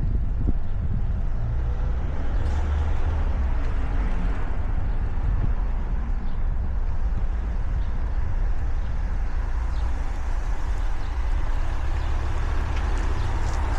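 Steady low rumble of a moving bicycle: wind buffeting the camera microphone and tyres rolling on the road.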